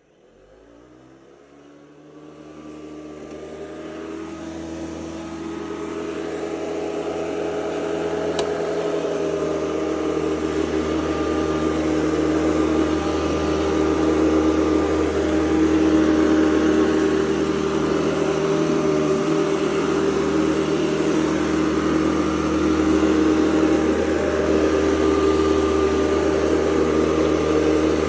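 Hoover Convertible U4101 upright vacuum cleaner switched on and spinning up, its pitch rising over the first few seconds and the sound growing louder over about ten seconds, then running steadily with a motor hum and a fan whine.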